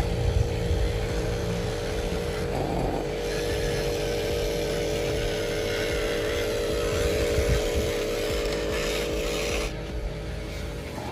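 Radio-controlled model truck's electric motor and gearbox running with a steady whine, easing off slightly near the end.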